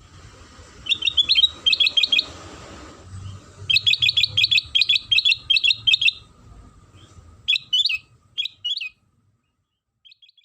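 Kutilang sutra bulbul singing in quick runs of bright chirps: two dense phrases, then a few shorter calls, after which the song stops about nine seconds in apart from a faint last chirp near the end. It is a lure-song recording played to draw caged birds into song.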